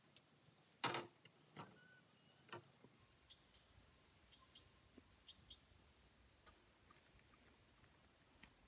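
Three faint short knocks in the first three seconds, then a series of faint high bird chirps.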